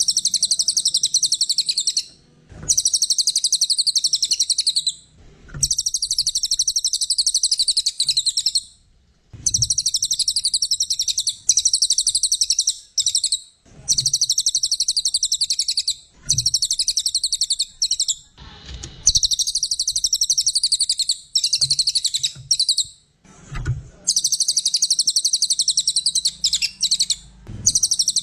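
A cililin, a small songbird kept in Indonesia as a song tutor, singing in long, rapid, high-pitched chattering phrases of two to three seconds each, with short pauses between them.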